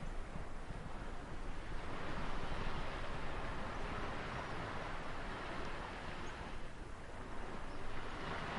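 Ocean surf washing on a shore: a continuous rushing wash of waves that slowly swells and eases.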